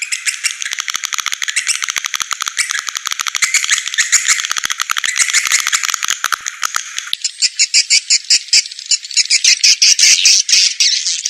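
Recorded calls of edible-nest swiftlets: a fast, dry chattering twitter made of rapid clicks, turning higher and sharper about seven seconds in. This is a swiftlet lure call, the sound played to draw swiftlets in to roost and nest.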